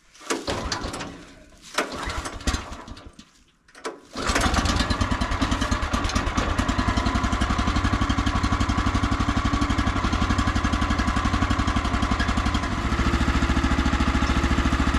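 Woodland Mills HM130MAX sawmill's gas engine being cranked twice on choke, catching about four seconds in, then running steadily as a cold start. Its note shifts slightly near the end.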